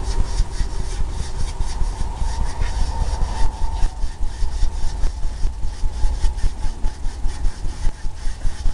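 A wide 2-inch paint brush rubbing back and forth on a stretched canvas in quick scratchy strokes, about three a second.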